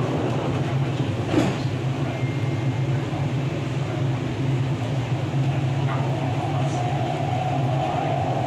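MTR East Rail line R-Train electric multiple unit running along the line, heard from on board as a steady low rumble of wheels and rails. A single sharp knock about a second and a half in, and a steady hum comes in about six seconds in.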